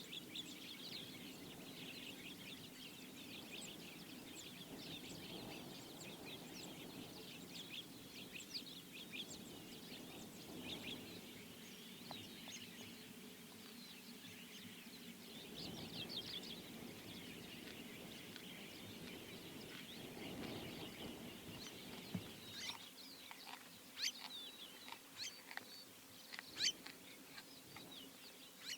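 Faint birdsong: many small chirps and twitters, with a few sharper, louder calls near the end. A low steady hum runs underneath.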